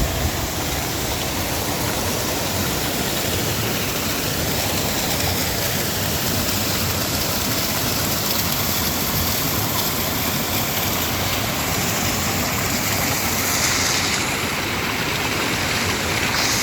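Waterfall: a steady, loud rush of falling water pouring into a pool.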